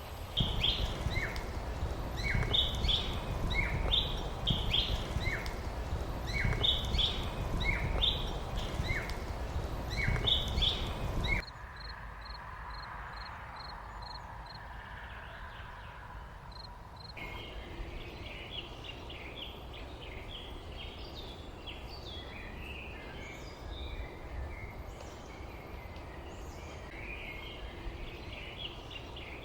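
Songbirds calling and chirping outdoors: first a repeated pair of short descending calls over a low rumble, then after an abrupt cut a quieter stretch with a quick run of high ticks, and from about halfway on a busier chorus of chirps.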